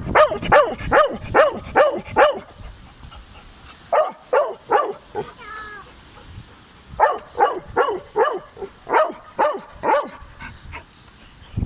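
Dog barking repeatedly in quick, sharp yaps, about two a second, in three runs with short pauses between.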